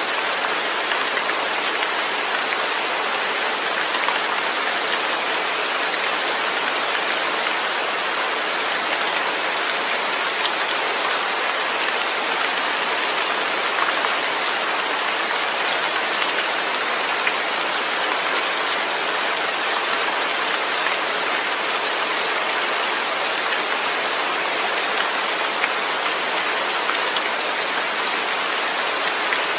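Steady rain falling, an even hiss that does not let up, with no thunder.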